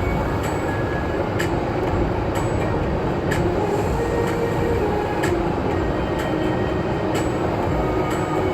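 A steady low rumble of machinery or a moving vehicle, with a sharp tick about once a second.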